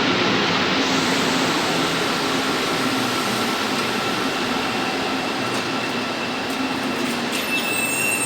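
A Santiago Metro Line 1 rubber-tyred train running through the station, a loud, steady running noise with a faint steady hum. Near the end a thin, high-pitched squeal sets in.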